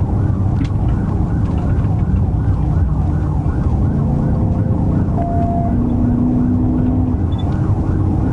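Police cruiser's siren on a fast yelp, rising and falling about three times a second, over the heavy rumble of the pursuing patrol car's engine and road noise.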